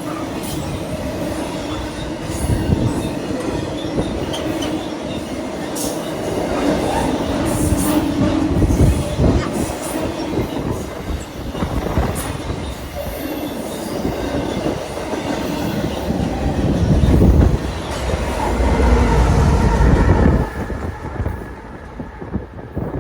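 CSX freight train rolling past, its wheels clicking over the rail joints. About twenty seconds in the sound drops away sharply as the end of the train goes by.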